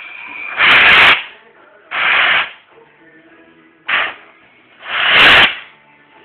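Compressed air hissing in four short bursts through the Schrader valve as an airbag suspension is inflated and lifts the truck. The second and fourth bursts are the longest and loudest.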